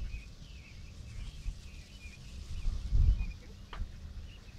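Small birds chirping repeatedly in short high chirps, over a low rumble that swells loudest about three seconds in. A single sharp click sounds just before the end.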